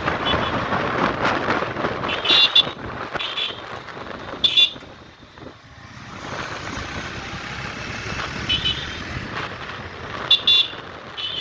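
Motorcycle riding along a road, with steady engine, tyre and wind noise. A horn gives several short beeps through the ride. The noise drops for a moment about five seconds in.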